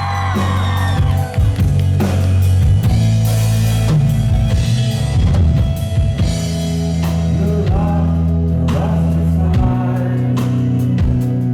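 Live rock band playing with drum kit, bass and guitar under a steady beat, with sung vocals near the start and again about eight seconds in.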